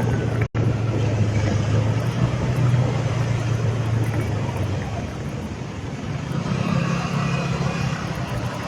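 Motorcycle engine running steadily on the move, with road and wind noise. The engine eases off a little past the middle and picks up again near the end, and the sound breaks off for an instant about half a second in.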